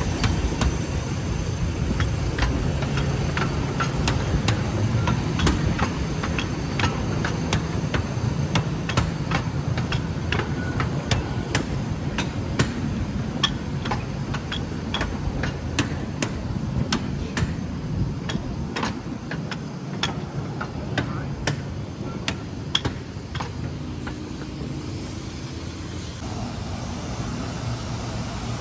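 Wagons of a 15-inch-gauge miniature railway permanent-way train rolling past, wheels clicking over rail joints about twice a second, over the steady run of the hauling diesel locomotive's engine, which fades away about two thirds of the way through.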